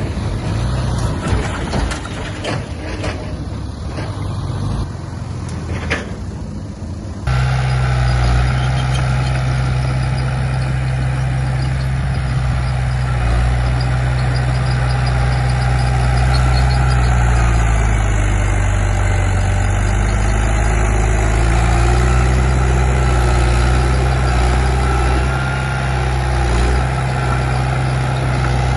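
Heavy diesel earth-moving machinery. For the first several seconds it is a rumble with scattered knocks and clanks. Then comes an abrupt change to a louder, steady engine drone, whose pitch dips briefly and recovers about two-thirds of the way through.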